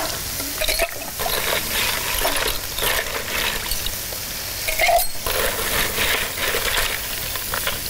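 Food sizzling in hot oil, a steady hiss, with clinks and knocks of utensils and dishes.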